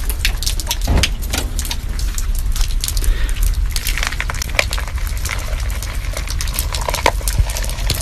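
Dense crackle of rain drops and drips over a steady low rumble, with dry dog kibble poured from a cup onto concrete about halfway through.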